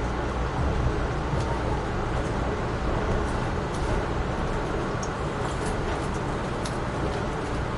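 Steady rumble of an Amtrak Northeast Regional passenger train rolling along the track at speed, heard from aboard, with a few faint scattered clicks.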